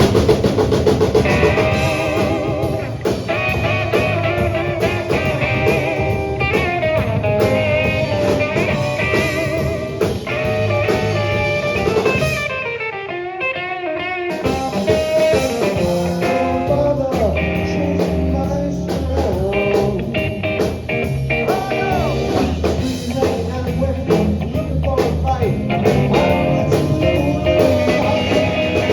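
Live rockabilly band playing an instrumental break, with electric guitar lines over bass and drums. About halfway through, the bass and drums drop out for a couple of seconds, leaving the guitar alone, and then the band comes back in.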